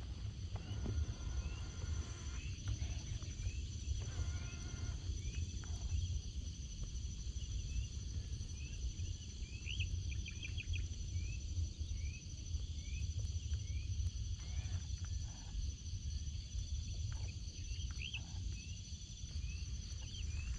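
Outdoor birdsong: a bird repeats short rising chirps about once a second, with a few longer, fuller bird calls in between. Underneath is a steady high-pitched insect drone and a low wind rumble.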